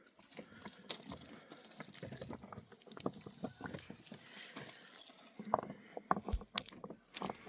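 Irregular light knocks and clicks, with a heavier low thump about six seconds in.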